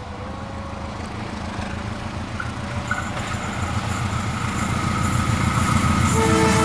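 Diesel locomotive hauling a passenger train as it approaches, its engine and wheel rumble growing steadily louder. The locomotive's horn begins to sound near the end.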